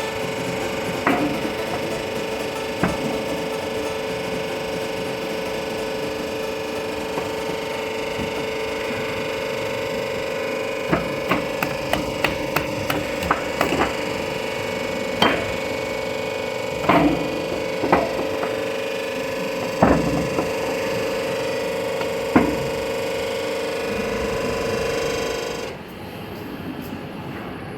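Industrial compressor-recycling machine running with a steady, pitched motor hum, overlaid by irregular sharp metal clanks and knocks as scrap compressor parts are handled and struck. The knocks bunch together in the middle, and the hum drops away near the end.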